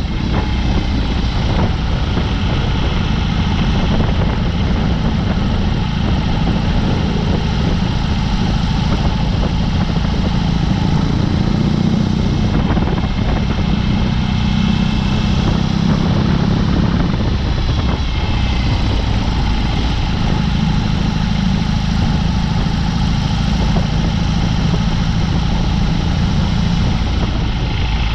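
BMW R18's 1802 cc boxer twin running through a Dr. Jekill & Mr. Hyde aftermarket exhaust while riding: a loud, steady low exhaust note that eases off and picks up again a few times as the throttle changes.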